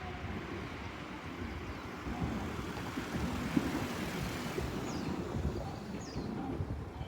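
A vehicle passing, a steady rumble and hiss that swells a little midway, with two short high chirps about five and six seconds in.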